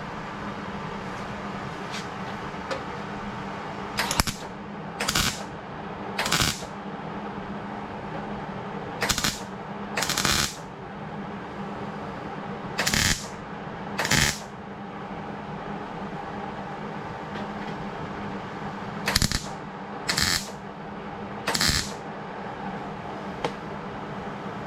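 MIG welder laying tack welds on a sheet-metal patch: about ten short bursts, each under half a second, in groups of two or three, over a steady low hum.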